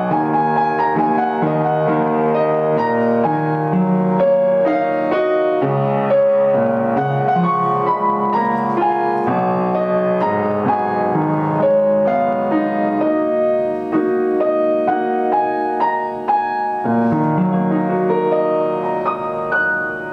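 Piano being played: a melody over chords, with notes struck one after another throughout.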